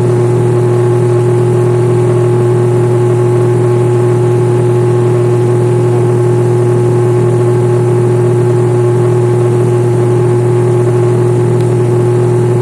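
Airliner engines running steadily, heard from inside the cabin: a loud, even drone with a constant low hum and a steady tone above it.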